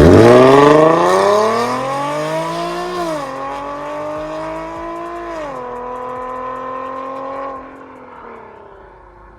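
Infiniti FX35's 3.5-litre VQ35HR V6 through an MS-R valved cat-back exhaust, accelerating hard: the exhaust note climbs in pitch, drops at gear changes about three and five and a half seconds in, climbs again, then fades away near the end.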